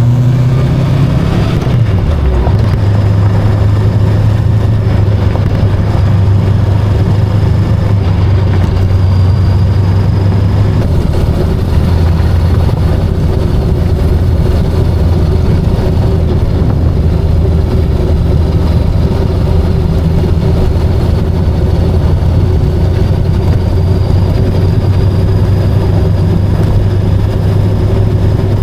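Voge 525DSX motorcycle's parallel-twin engine running steadily under way, over a steady rush of wind. The engine pitch falls about two seconds in and settles a little lower again about eleven seconds in.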